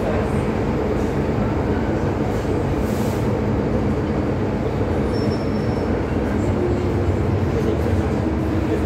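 MTR M-Train metro running at speed, a steady rumble of wheels on rail and running gear.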